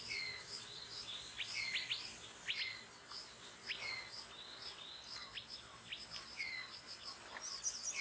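Minivet calls: repeated high, thin whistles that slide downward, about one a second, with a few short sharp chirps between them, over a steady faint high whine.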